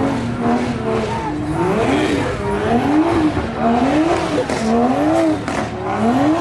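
Car engine being revved repeatedly, its pitch climbing and dropping about once a second, around half a dozen revs in a row.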